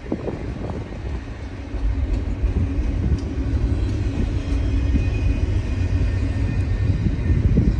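Intermodal freight train rolling by: a steady low rumble with scattered faint clicks.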